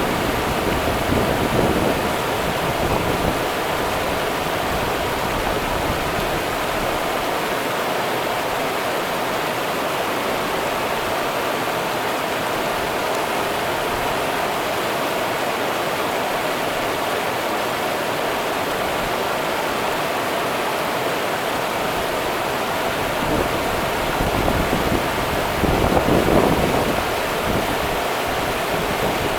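Rio Grande river water running, an even rushing noise. It swells briefly louder and deeper near the start and again a few seconds before the end.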